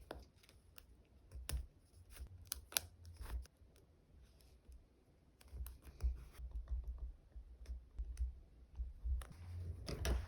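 Close-up desk crafting sounds from diary decorating with stickers and paper: scattered light clicks and short crinkly rustles, with dull bumps on the desk, loudest about a second before the end.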